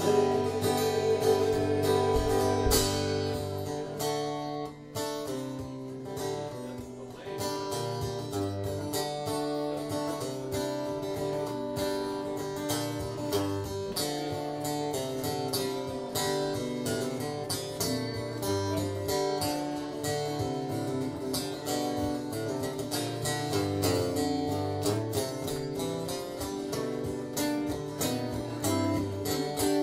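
Live guitar playing an instrumental passage between sung verses, steadily strummed with picked notes over a repeating bass line.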